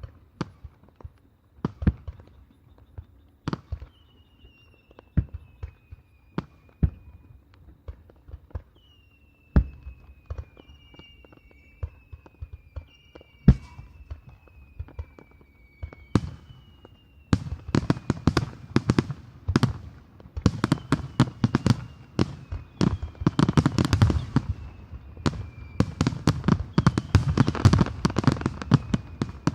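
Fireworks display. Scattered bursting shells come first, with several long whistling tones that slide down in pitch. From a little past halfway, a dense rapid barrage of bangs and crackle takes over and is the loudest part.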